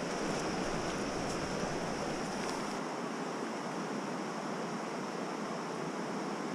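Steady rushing noise of water, even and unbroken, with no single event standing out.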